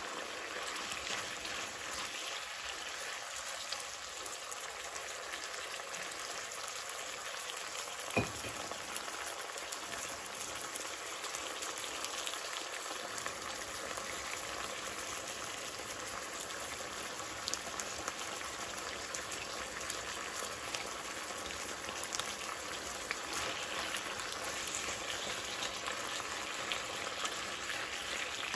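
Beef slices sizzling and bubbling in sauce in a nonstick wok, a steady crackle with fine pops, and a single sharp knock about eight seconds in.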